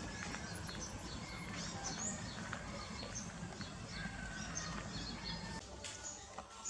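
Small birds chirping repeatedly in quick short calls over a steady low rumble of outdoor background noise; the rumble drops away near the end.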